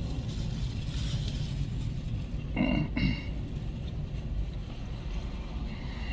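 Steady low rumble inside a car cabin, typical of the engine idling, with one short throat sound from an occupant about three seconds in.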